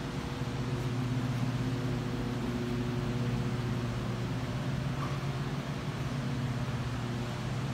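2007 Cadillac Escalade EXT's 6.2-litre V8 idling steadily, a low even hum.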